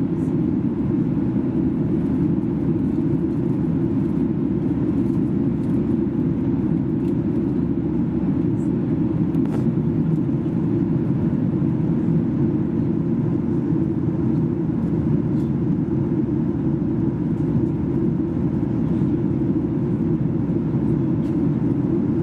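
Steady roar of a Boeing 737-800's CFM56 jet engines and rushing air, heard inside the passenger cabin, even and unchanging throughout, with a few faint clicks.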